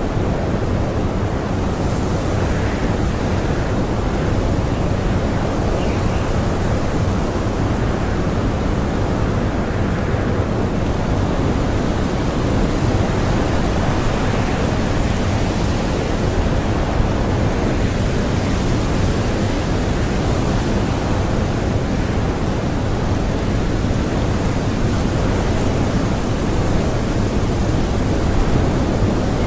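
Blizzard wind blowing hard and steadily as a deep rushing noise, with gusts that swell and ease every few seconds.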